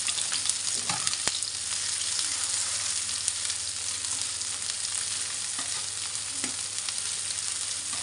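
Sliced red chillies, garlic and shallots sizzling steadily in hot oil in a wok, stirred with a metal slotted ladle that clicks and scrapes against the pan.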